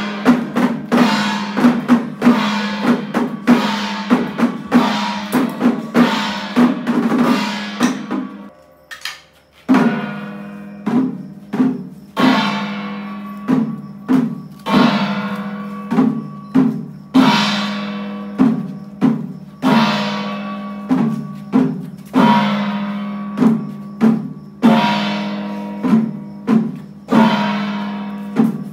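Chinese temple-procession percussion of drums and gongs, struck in a steady rhythm with ringing strokes, breaking off briefly about nine seconds in before starting again.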